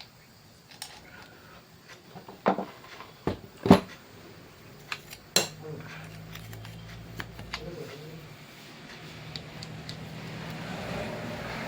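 Metal tools and small parts clinking and knocking as they are handled, a few sharp knocks in the first half, with a low steady hum underneath from about halfway.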